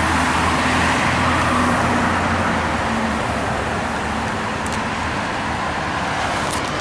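2002 Blue Bird CS transit bus running on its Cummins ISC diesel, a steady low engine hum over road noise. The engine's pitched hum fades about halfway through, and a few sharp clicks come near the end.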